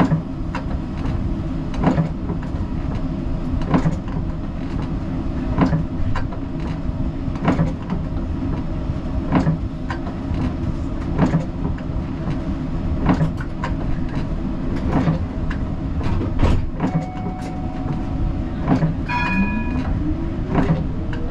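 Siemens Combino tram running, heard from the driver's cab: a steady low rumble with a sharp click about every two seconds. Near the end a whine rises steadily in pitch as the tram picks up speed, with a brief high ringing tone just before it.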